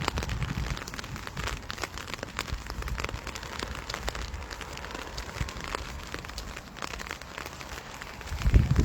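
Rain pattering, with many small, irregular ticks of individual drops over a steady hiss.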